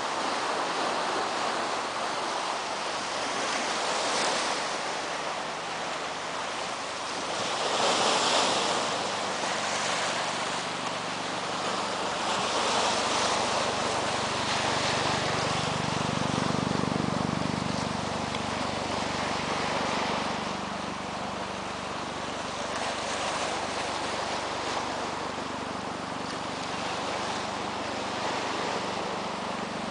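Steady rush of wind and surf that swells and eases every few seconds, with a low engine hum rising around the middle and again near the end.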